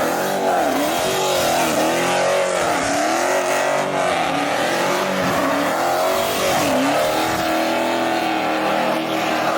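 Car engine held at high revs, its pitch dipping briefly and climbing back again and again as the throttle is blipped.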